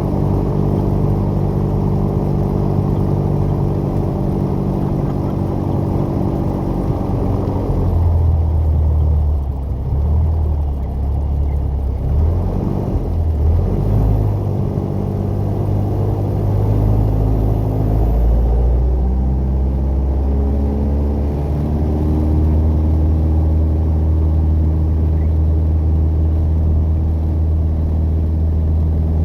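Piper PA-28 light aircraft's piston engine and propeller running steadily with a low drone. The engine note changes about eight seconds in and again about eighteen seconds in.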